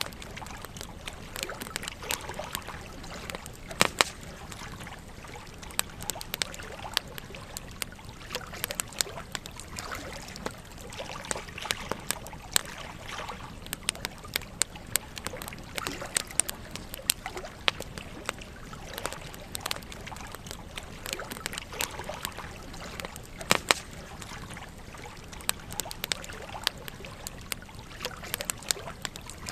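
Campfire wood fire crackling: a steady hiss under frequent sharp pops and clicks, with a few louder snaps.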